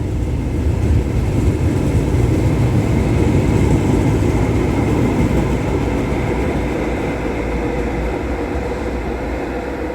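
Tyne and Wear Metro train (Metrocars 4077 and 4019) running along the platform: a steady low rumble with a faint hum, growing louder over the first few seconds and then slowly fading.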